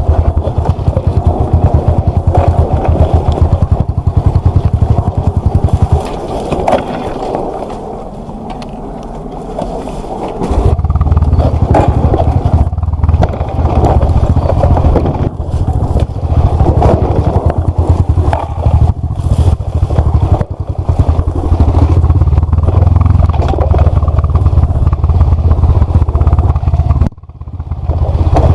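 Dirt bike engine running hard on a trail ride, with knocks from the bike over rough ground. About six seconds in the engine eases off for a few seconds, then pulls strongly again; it dips briefly once more near the end.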